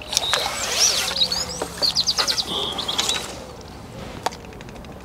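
A small songbird singing a varied phrase of high chirps and gliding whistles, with a quick rattling trill about two seconds in, stopping after about three seconds.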